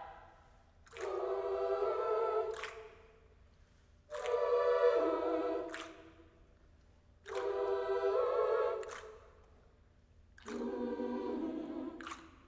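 A cappella voices singing four held chords without words, each about two seconds long, separated by short silences.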